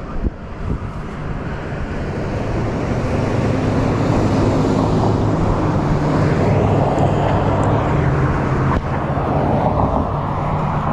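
Freego X2 electric dirt bike riding over dirt: tyre and wind noise with a steady low hum, growing louder over the first few seconds.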